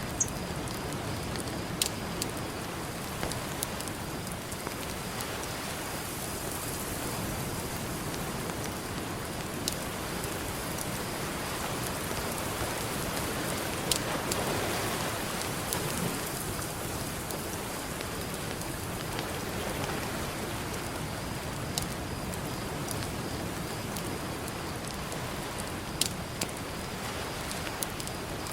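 Campfire crackling, with a few sharp pops, over a steady wash of ocean surf that swells briefly near the middle.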